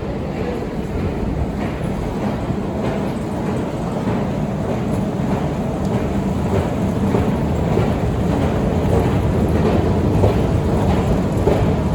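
Long Otis metro escalator running, a steady mechanical rumble with a faint regular clatter from the moving steps, growing slightly louder toward the end.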